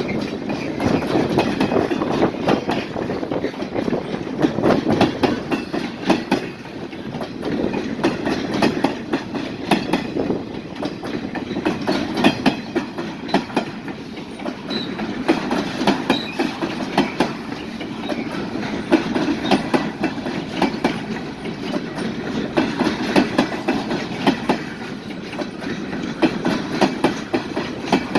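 Freight train cars rolling past at steady speed, their wheels clicking irregularly over rail joints above a continuous rumble.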